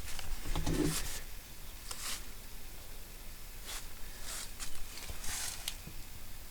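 Footsteps: a few irregular scuffing steps over a faint low rumble, with a brief low voiced sound near the start.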